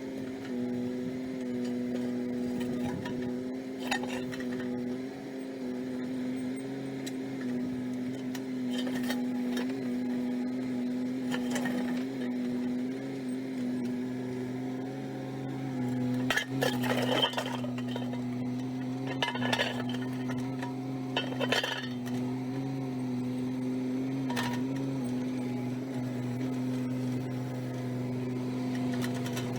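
Mini excavator's engine running steadily while its steel bucket clanks against rocks as it scoops brush and rocks, with several sharp metallic knocks, a cluster of them a little past halfway through.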